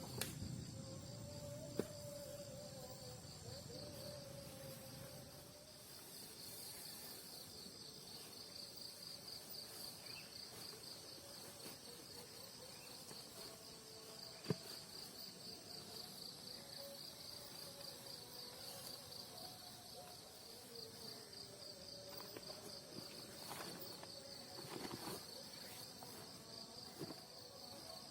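Forest insects, crickets or similar, trilling in a steady, fast, high-pitched pulse, with a single sharp click about halfway through.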